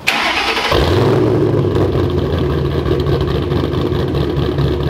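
Ford Mustang GT's 4.6L three-valve V8 starting: a sharp burst of cranking, the engine catching under a second in, then running steadily at idle through the exhaust.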